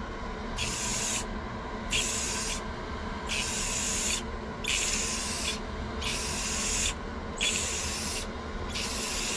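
Clear-coat enamel spraying in short hissing bursts, about seven, each under a second with brief gaps between: light passes of clear coat being laid on.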